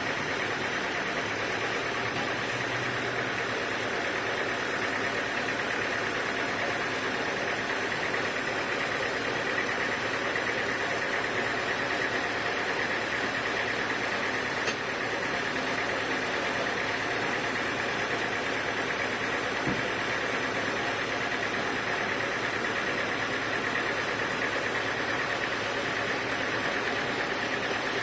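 Sawmill machinery running steadily, with an even engine-like drone and a high steady hum, and a few faint clicks.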